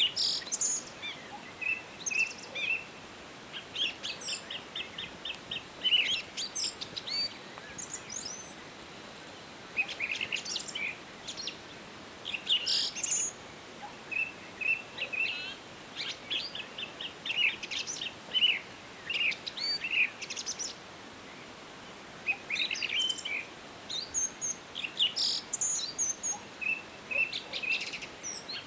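Several songbirds singing: bursts of quick chirps and fast trills, a new phrase every few seconds, over a faint steady background hiss.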